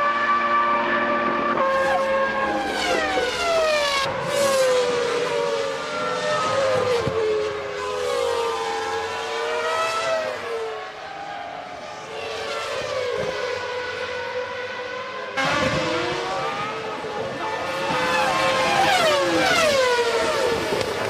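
Formula One cars' 3-litre V10 engines screaming at high revs, several at once. Their pitch sweeps down and back up as they brake, shift gears and pass. The sound changes abruptly about 15 seconds in.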